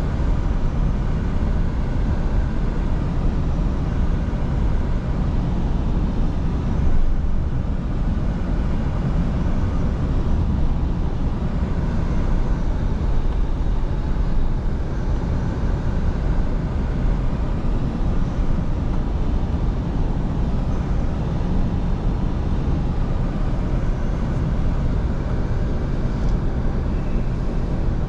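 Scania V8 diesel truck engine running steadily under way, with a continuous low drone and road noise and no changes in pace.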